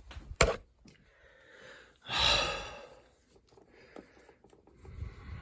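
A man sighing: one heavy exhale about two seconds in and a softer one near the end, with a sharp click about half a second in.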